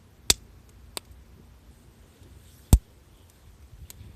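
Campfire crackling: four sharp pops of burning wood at irregular intervals, the loudest and deepest a little under three seconds in.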